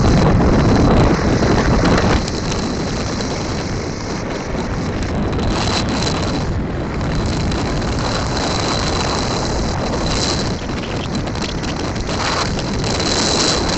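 Wind buffeting the microphone and road noise while riding a motorcycle, a heavy, steady rush that eases a little about two seconds in.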